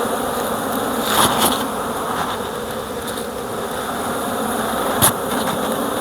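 Swarm of honeybees buzzing steadily around an opened hive, with a couple of brief sharp clicks about a second in and again near the end.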